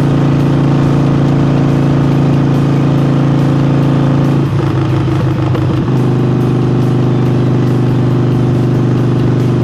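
Harley-Davidson Forty-Eight's air-cooled 1200 cc V-twin, breathing through an aftermarket air intake, running steadily under the rider on the move. About four and a half seconds in the note breaks up for a second or so, then settles again at a slightly lower pitch.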